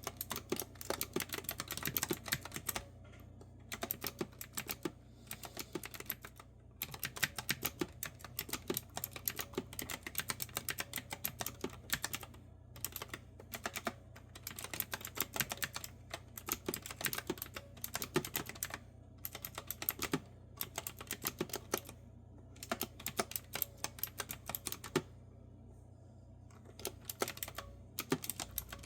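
Clicky retro-style keyboard with round keycaps being typed on: quick runs of crisp keystrokes broken by short pauses.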